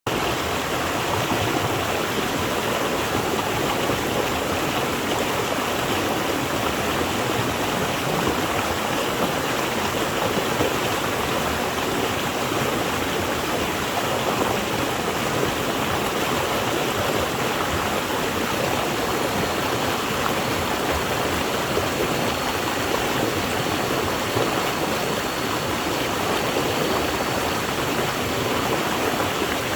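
Flowing water rushing and gurgling steadily, like a fast stream spilling over rocks.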